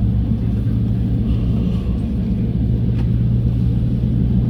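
Airbus A320 cabin noise while taxiing: a steady low rumble with a constant hum from the engines at low power.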